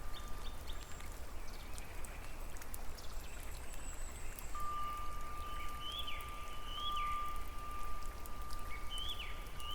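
Nature ambience of dripping, trickling water, with many small drips over a low steady rumble. Short bird chirps, each rising then falling, come four times in the second half, and a steady high tone runs under them.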